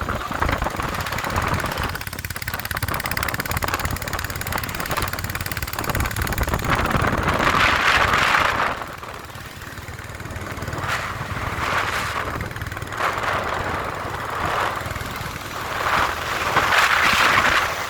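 Motorcycle on the move: the engine running with a steady rush of road and air noise that swells and eases a few times, loudest about halfway through and again near the end.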